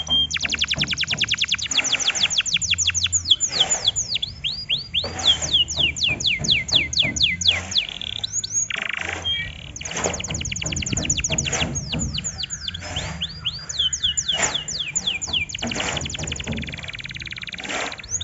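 Domestic canary singing: fast trills of rapidly repeated falling notes, several different tours one after another with short breaks between them.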